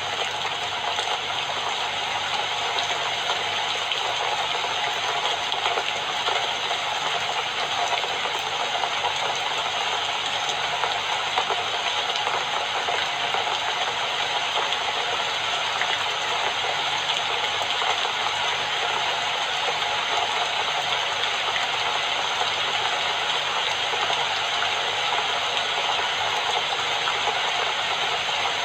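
Steady rainfall, a dense even hiss with a fine patter throughout.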